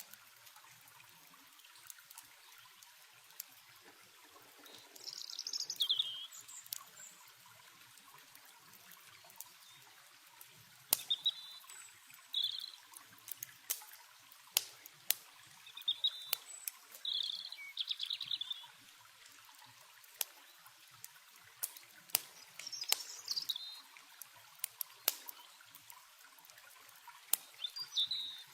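Stream water trickling steadily, with songbirds giving short chirping calls every few seconds and a campfire's sharp crackles and pops.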